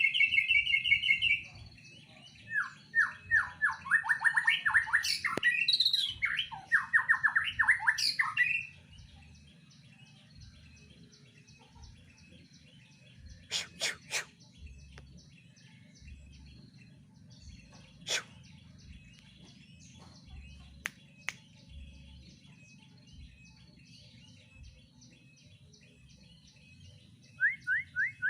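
White-rumped shama (murai batu) singing: a run of loud, rapid trilled and whistled phrases for the first eight seconds or so, then a few short sharp calls, and a brief quick trill near the end.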